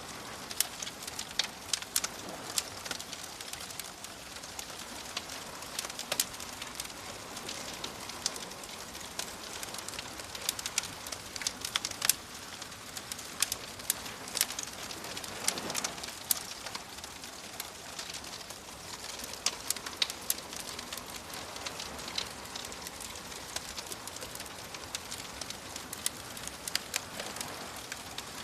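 Campfire crackling with frequent sharp pops and snaps, over a soft, steady wash of waves that swells about halfway through and again near the end.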